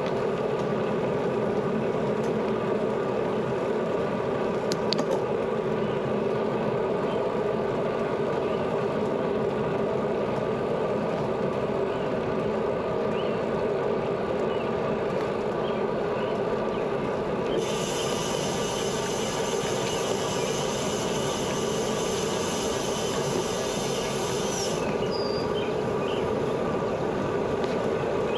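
Bicycle riding on a paved road: a steady rush of tyre noise and wind. About two-thirds of the way through, a high buzz starts suddenly and stops suddenly several seconds later, like a rear-hub freewheel ticking while the rider coasts.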